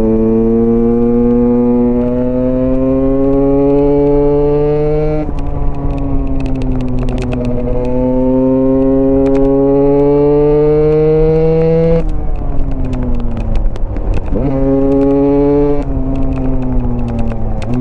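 Husqvarna enduro motorcycle's single-cylinder engine under way. The pitch climbs slowly as it pulls, falls away when the throttle closes about 5 and 12 seconds in, and jumps in a quick rev blip about 14 seconds in.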